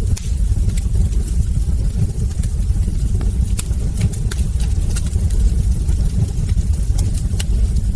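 Wood fire burning in a fireplace: a steady low rumble of the flames with frequent sharp crackles and small pops from the burning logs.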